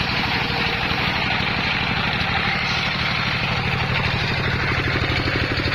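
Engine of a homemade circular saw rig running steadily, with an even, rapid pulsing beat and a steady hiss above it and no change in speed.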